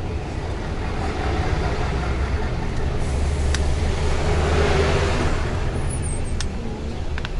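Bus engine and road noise heard from inside the cabin: a steady low rumble that swells to a peak about halfway through, with a few sharp clicks or rattles.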